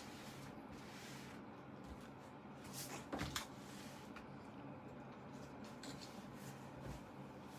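Faint handling noises, short scratches and rustles, with a louder cluster of scrapes about three seconds in, over a low steady hum.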